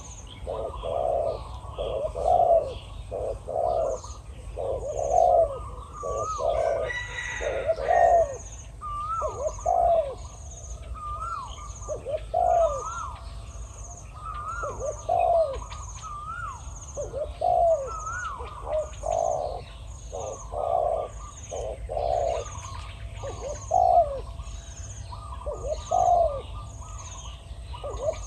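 Spotted doves cooing in repeated phrases, a decoy and a wild male calling back and forth; the wild bird's voice is very big. A faint high tick repeats steadily about every 0.7 s.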